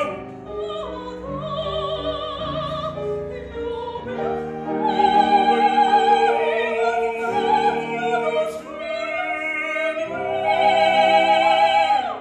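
Operetta singing in classical operatic style, the voices in wide vibrato on long held notes with accompaniment. It swells loudest on a sustained phrase about halfway through and on another near the end, then breaks off.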